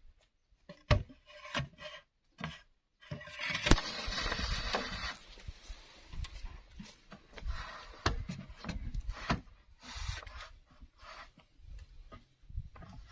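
Bamboo being worked by hand: scattered knocks and clicks, with a rasping scrape starting about three seconds in and lasting some two seconds, then lighter scraping and knocks.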